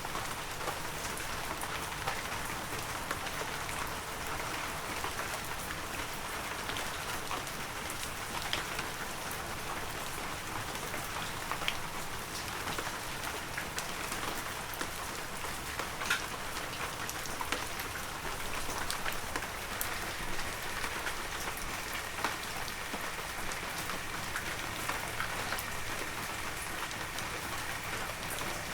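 Heavy rain falling steadily, a dense hiss of rain with individual drops pattering and tapping sharply here and there.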